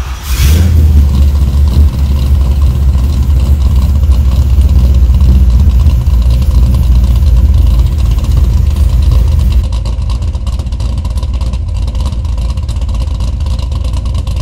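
Cammed LS1 V8 engine firing up with a burst right at the start, then idling with a loud, steady deep rumble; about ten seconds in it turns somewhat quieter. It is running on the factory Haltech idle tune, without any ghost-cam chop added.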